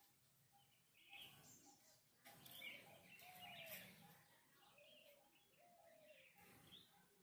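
Faint birds chirping and calling in the background over near silence, with a few short arching calls in the middle.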